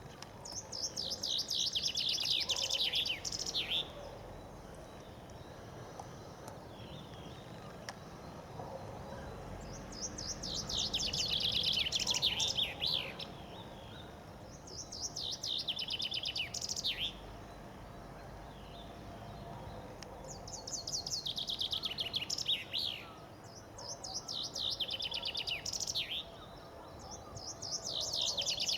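Common chaffinch singing its spring song: about six phrases a few seconds apart, each a rapid trill falling in pitch and ending in a quick flourish.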